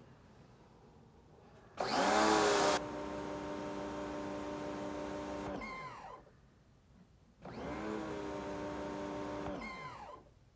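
Pressure washer running twice with a steady hum, the first time opening with about a second of loud hiss. Each time the trigger is released, the motor winds down with a squeal that falls in pitch, which the owner says sounds like metal parts rubbing.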